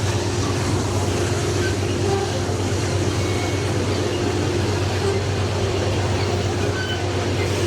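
Freight train's diesel locomotives running with a steady low drone and a constant hum, with no change in level.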